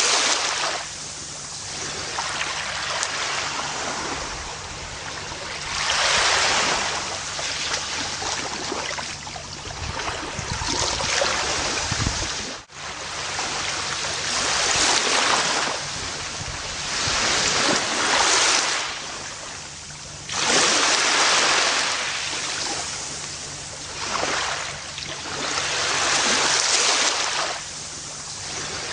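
Gentle ocean waves breaking and washing up a beach, the surf swelling and fading every few seconds, with a brief dropout about twelve seconds in.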